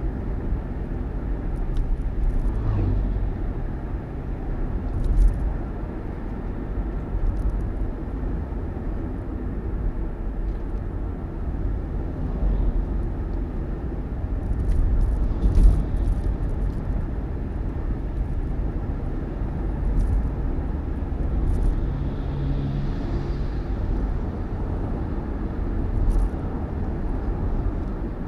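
A road vehicle running, heard as a steady low rumble of engine and road noise with occasional knocks and rattles.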